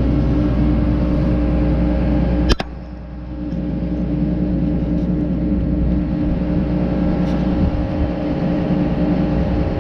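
John Deere 9500 combine running steadily, a deep engine rumble with a few steady whining tones over it. A sharp click about two and a half seconds in, then the sound drops abruptly and builds back up over the next few seconds.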